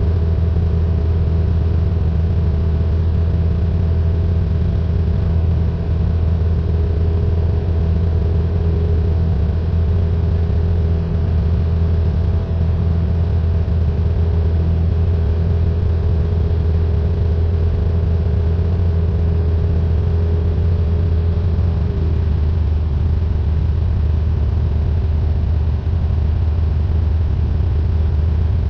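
Cessna 172N's piston engine and propeller droning steadily in flight, with a slight drop in pitch about three quarters of the way through.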